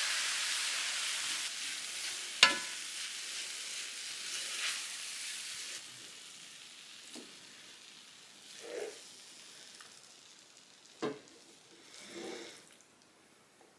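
Cabbage and carrot stir fry sizzling in the pan just after the sauce goes in, with a utensil stirring and knocking against the pan. The sizzle fades away over the stretch; the sharpest knock comes about two and a half seconds in, and another comes near the end.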